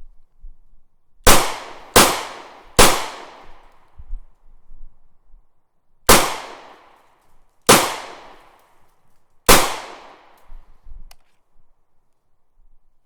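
Six sharp bangs, each trailing off in a fading echo. Three come in quick succession, then after a pause three more follow at slower, even spacing.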